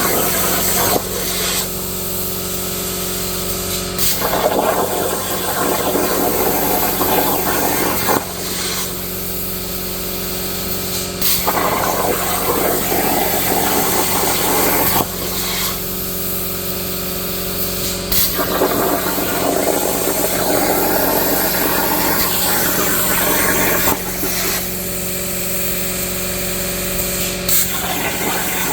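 Plasma torch of a Langmuir Crossfire XR CNC table cutting steel: a steady hiss over a constant hum from the machine, with sharp clicks every few seconds and louder rushing stretches of about three to six seconds between quieter ones.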